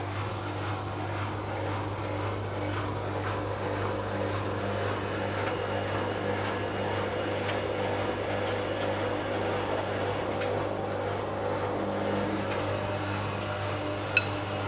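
Arçelik 5900E (Bauknecht-built) front-loading washing machine running steadily with a low hum as its spin after the second rinse gets under way. A single sharp click sounds near the end.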